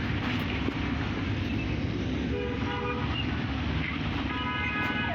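Steady low rumble of vehicles, with horns honking twice: a short blast about two and a half seconds in and a second, longer one near the end.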